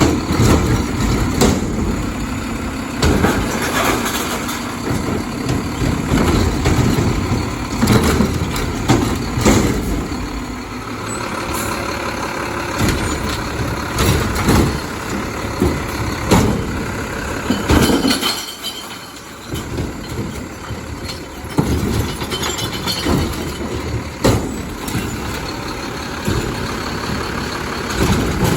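Mack garbage truck with a McNeilus refuse body running close by, its engine steady under many sharp clanks and knocks, with a short lull about two-thirds of the way in.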